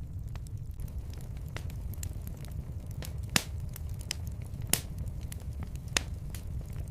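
Fireplace fire crackling, with scattered small snaps and pops over a steady low rumble of the flames; three louder pops come in the second half.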